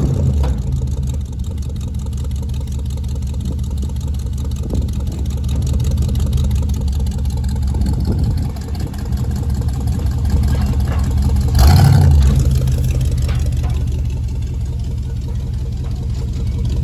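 Truck engine running steadily under load while pulling on a tow strap, with a brief louder rev about two-thirds of the way through.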